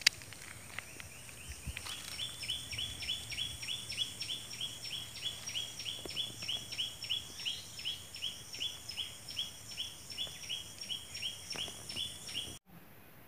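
A bird calling: a short, high note repeated evenly about three times a second, over a faint steady high hiss. A sharp click comes right at the start, and everything cuts off suddenly near the end.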